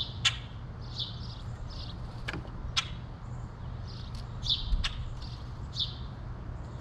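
Small songbirds giving short high chirps every second or so, with several sharp clicks among them, over a steady low hum.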